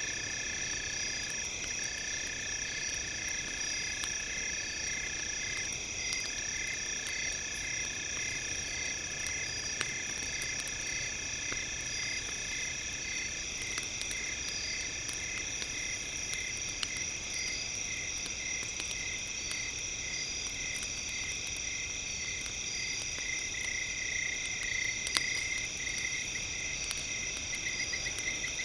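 Several steady, high-pitched generated tones layered together, some pulsing evenly about twice a second. Under them, faint sharp crackles from a wood campfire.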